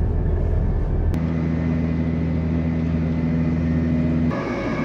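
Inside a diesel passenger train carriage: the train's steady low running hum and rumble. A sharp click comes about a second in, then a steady low drone holds until a little after four seconds, when the sound shifts abruptly to a rougher rumble.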